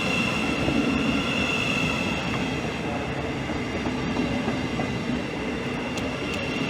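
Class 700 electric multiple unit standing at the platform: a steady electrical hum with a constant high whine from its onboard equipment.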